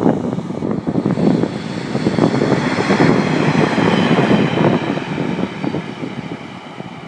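A train passing close by at speed, its wheels clattering over the rail with many quick knocks. The noise comes in suddenly, is loudest in the middle and dies away near the end.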